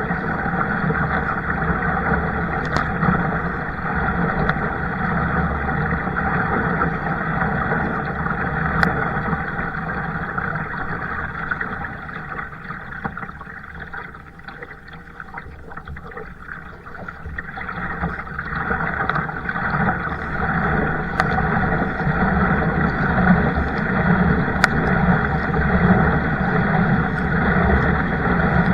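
Steady rushing noise of a kayak out on the water, easing off for a few seconds about halfway through.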